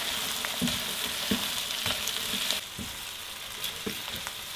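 Chopped onion and garlic sizzling in hot oil in a pan, sautéed until fragrant, with a utensil stirring and knocking against the pan every half second or so. The sizzle eases a little just past the middle.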